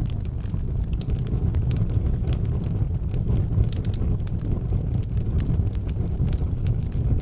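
Fire burning in a fireplace, crackling with many small sharp pops over a steady low rumble.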